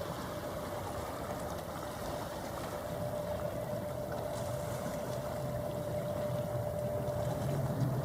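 Steady drone of a ship's engines and machinery, with a thin constant hum over a low rumble that grows a little louder near the end.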